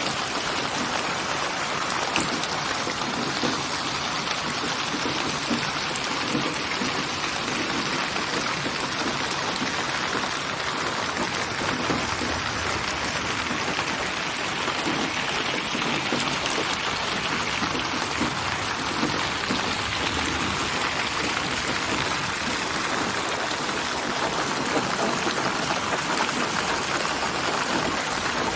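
Steady rain falling: an even hiss of many small drop impacts, unchanging throughout.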